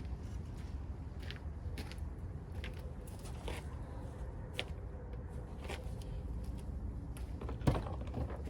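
Scattered light clicks and taps of work being done by hand, with one sharper knock a little before the end, over a steady low rumble.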